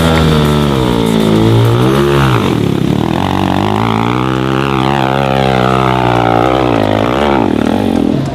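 Dirt bike engine revving hard under throttle on a steep hill climb. Its pitch drops sharply about two seconds in, climbs again and wavers, then dips once more near the end.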